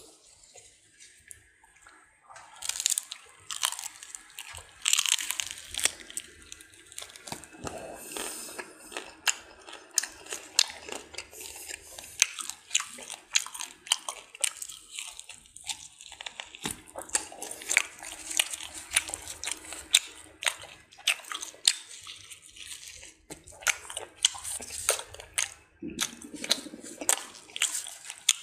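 Close-miked crunching and chewing of roasted pig's head meat and skin: quick crisp crackles, starting after a quiet couple of seconds.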